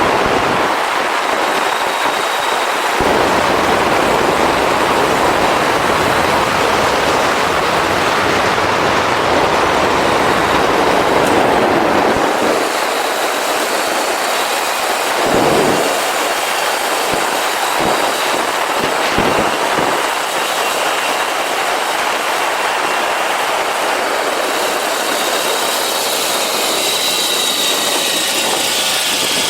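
A motorcycle on the move: a steady rush of wind noise over the bike-mounted camera's microphone, mixed with the motorcycle running. Brief low gusts of wind buffeting come and go about halfway through.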